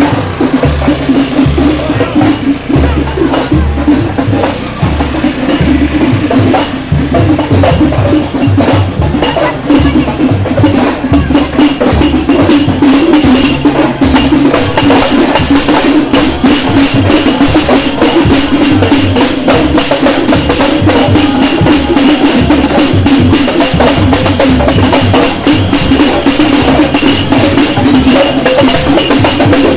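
Loud music with a heavy, evenly repeating bass beat and tambourine, played through a large outdoor sound system.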